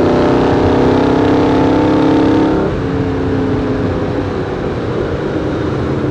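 Shelby AC Cobra's 289 V8 engine running hard with a strong, slightly rising note. About two and a half seconds in, the note drops in level and the engine runs on more quietly.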